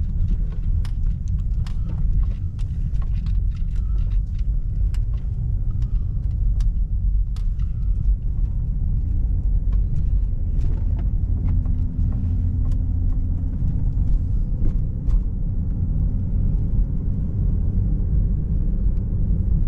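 Steady low road and engine rumble inside a truck's cabin while driving, with scattered faint clicks and knocks.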